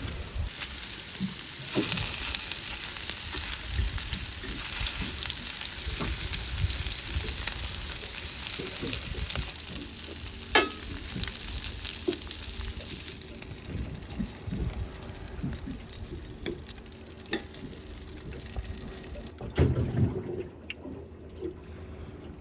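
Panko-crumbed coral trout frying in hot oil, sizzling and crackling. The sizzle is strongest for the first ten seconds or so and then dies down, with one sharp click about halfway.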